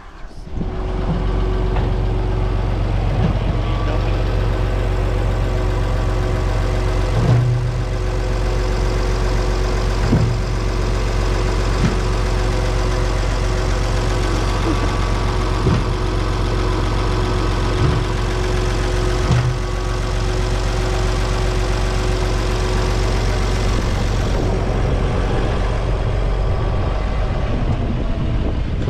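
An engine running steadily with an even hum, with a few brief knocks or clunks over it.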